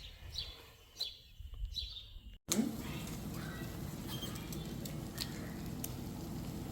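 A few short, quick falling chirps from small birds. Then, after a sudden cut about two and a half seconds in, a steady even hiss with scattered small ticks.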